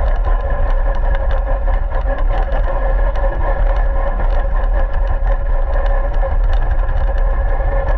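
Radio-controlled car running: a steady motor whine over a heavy low rumble, with many small clicks and knocks throughout.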